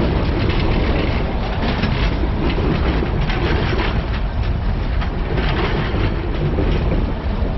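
Railway cars of a passing train rolling by close at hand: a steady rumble of steel wheels on the rails with repeated clacks as the wheels cross the rail joints.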